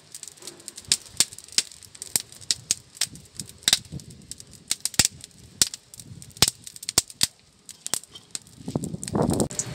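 Campfire wood crackling and popping, sharp snaps at irregular intervals several times a second, with a low rumble of wind near the end.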